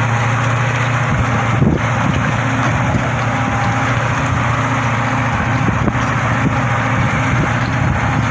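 Heavy vehicle's engine running steadily with a low hum, with a couple of short knocks.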